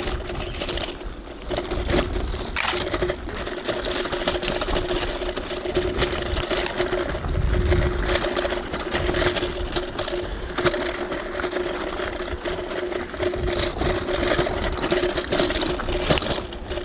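Electric hyperscooter riding over a dirt trail: a steady motor whine over rumbling tyre and wind noise, with scattered clicks and rattles.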